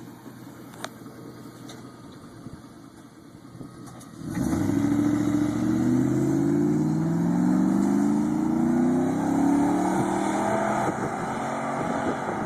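2006 Chevy Silverado 1500 with a MagnaFlow exhaust idling faintly, then about four seconds in it accelerates hard from a standstill, the exhaust note rising in pitch in repeated sweeps as it shifts up, easing off slightly near the end.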